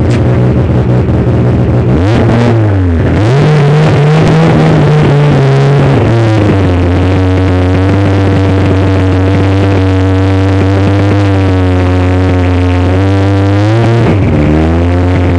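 Car engine running hard at high revs. The pitch drops and climbs again about two seconds in, then holds nearly steady for several seconds before dipping once more near the end.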